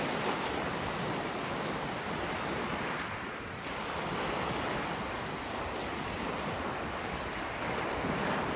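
Sea waves washing onto the beach, an even rushing that swells and eases, dipping briefly a little after three seconds in.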